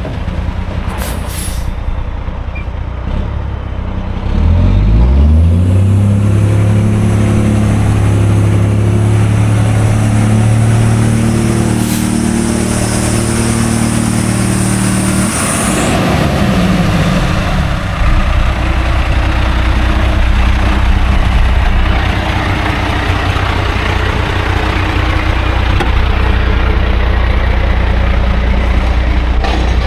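1999 International 5000 truck's engine running, revved up a few seconds in, held at raised speed with a high hiss over it, then dropped back to a steady idle. A short sharp sound about two-thirds of the way through.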